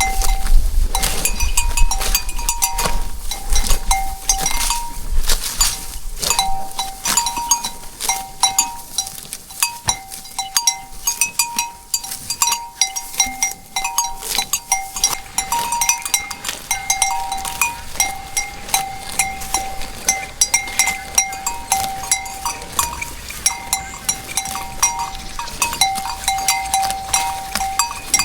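Cowbells on grazing cows clanking and ringing irregularly, with at least two bells of different pitch and many quick knocks. A low rumble is heard in the first few seconds.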